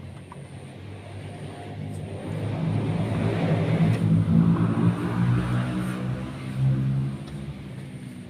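A passing motor vehicle's engine, growing louder over a few seconds and then fading away.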